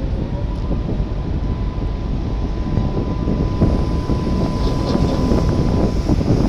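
Strong wind buffeting the microphone: a dense, low rumbling noise that grows a little louder in the second half.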